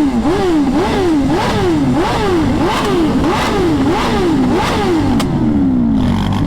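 Straight-piped motorcycle with no muffler being revved over and over, its pitch rising and falling about one and a half times a second, then winding down slowly near the end. The rider says it sounds like it needs a tune really bad.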